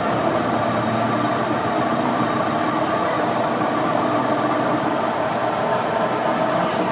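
A machine running steadily with a constant hum and no change in pitch.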